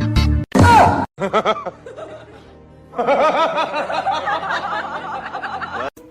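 Music with a snickering laugh, its pitch bobbing up and down several times a second for about three seconds in the second half.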